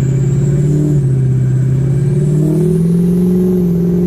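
Diesel pickup truck engine running through a 10-inch exhaust stack while driving through deep snow. The revs rise a little about two and a half seconds in, then ease back near the end.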